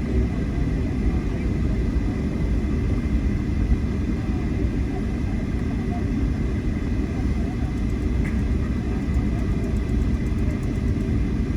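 Airliner cabin noise: a steady low rumble of the jet engines and airflow heard from inside the passenger cabin, with a faint thin whine above it.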